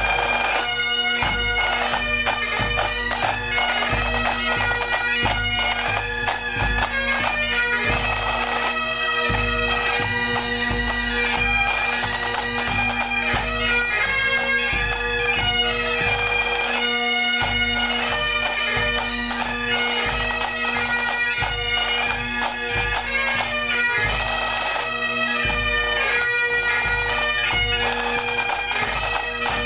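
Pipe bands playing a tune on Highland bagpipes: steady drones under the chanter melody, with the band's drums beating out a low, regular pulse.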